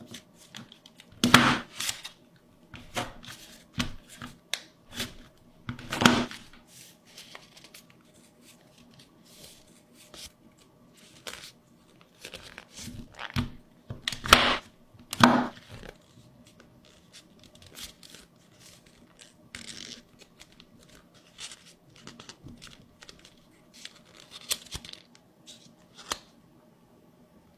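Paper being worked by hand: irregular short bursts of tearing and crinkling, loudest about a second in, about six seconds in, and twice around fourteen to fifteen seconds.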